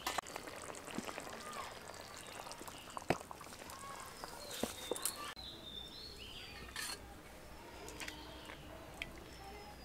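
Small birds chirping outdoors, with short falling calls repeated now and then, and a few sharp clicks.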